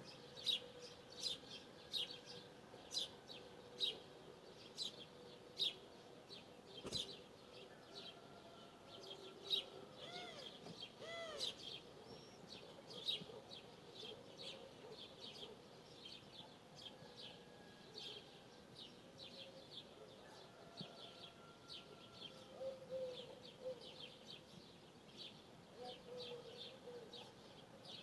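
Wild birdsong: one bird repeats a short, high chirp about once a second while other birds give softer, lower calls now and then.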